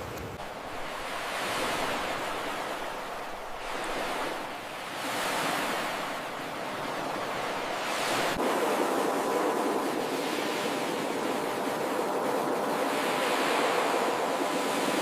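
Ocean surf breaking and washing onto a beach, rising and falling in swells every few seconds.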